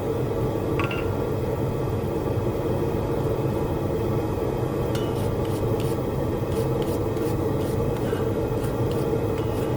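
Blacksmith's forge running with a steady rumble, with faint light clicks from about five seconds in.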